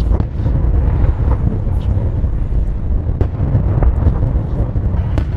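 Aerial fireworks going off: a continuous low rumble of booms, with several sharp cracks scattered through it.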